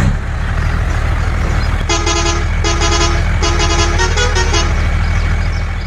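A small vehicle engine runs steadily throughout. About two seconds in, a horn honks five times in quick succession, the last blasts shorter.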